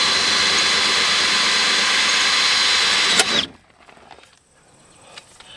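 Power drill running steadily with a high whine while drilling out a window regulator rivet inside a truck door; it stops abruptly about three seconds in, followed by a few faint clicks.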